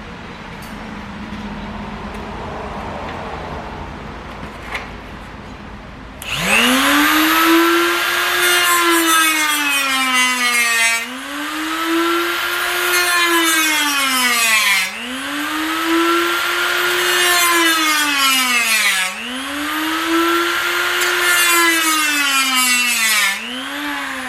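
A high-speed handheld power tool spins up about six seconds in and cuts into the speaker pod's edge to shave material off. Its motor pitch sags and recovers four times as the tool bites and is eased off. Before it starts there is only quiet handling noise and one click.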